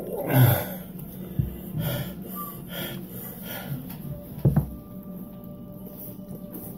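A person's wheezing, gasping breaths and sniffs, in several short sharp strokes. The loudest comes about half a second in and another strong one about four and a half seconds in. The breathing is that of someone eating a very spicy torta ahogada.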